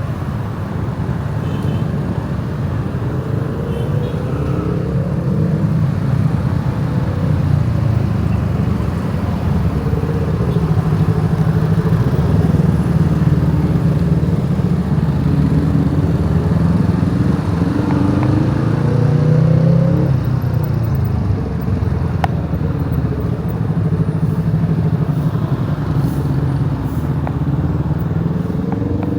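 Motorcycle engine running while riding, its pitch rising and falling with the throttle, loudest about twenty seconds in.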